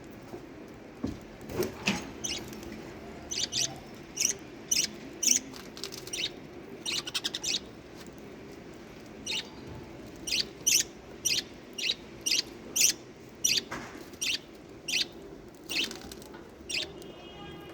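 Lovebirds giving many short, sharp, high chirps, singly and in quick runs of two or three, over a faint steady low hum.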